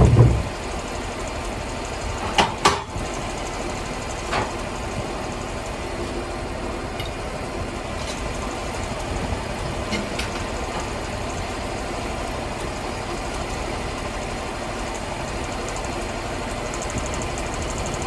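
Sawmill engine running steadily, with a few sharp knocks early on, twice about two and a half seconds in and once more at about four and a half seconds.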